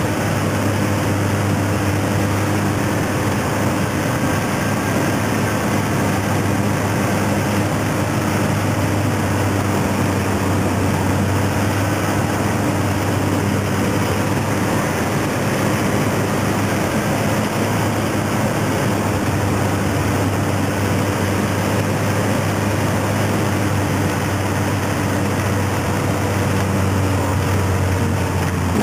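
Ax3 microlight's engine and propeller running at a steady speed under a rush of wind noise, the pitch easing slightly near the end. The engine is running again after seizing in flight, and the pilot says it sounds dodgy.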